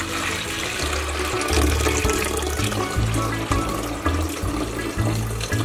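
Salt water poured in a steady stream into a clear plastic jar as it fills, over background music.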